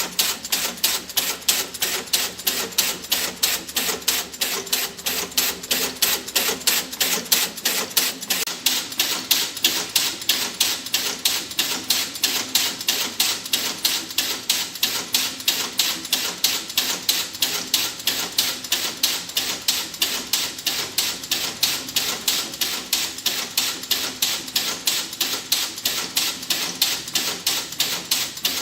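Hard clacking in a steady, even rhythm of sharp clicks, about three a second, of the kind the video sets out to show: the 'tick tock' or 'hakkaka' sound.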